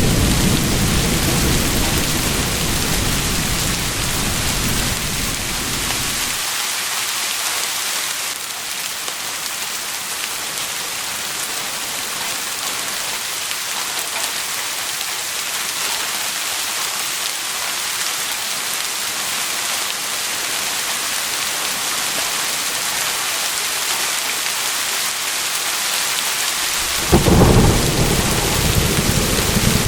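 Steady heavy rain hissing, with rolling thunder rumbling at the start that dies away about six seconds in, and a fresh crack and rumble of thunder near the end.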